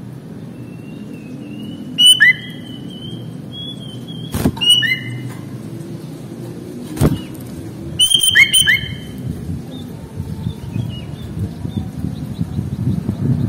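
Sooty-headed bulbul (kutilang) giving short whistled chirps in three bursts, over a steady low rumble, with two sharp knocks in between.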